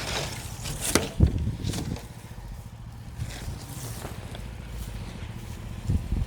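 QH13R mini excavator's engine running steadily with a low hum, with several knocks and clunks about a second in and again near the end.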